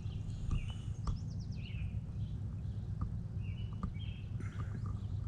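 Several songbirds chirping in short, repeated calls with quick slides in pitch, over a steady low rumble.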